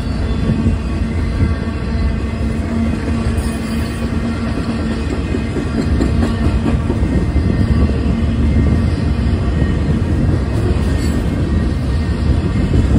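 Freight cars rolling past on the rails, a steady rumble of steel wheels on track with faint clicking. It grows slightly louder about halfway through.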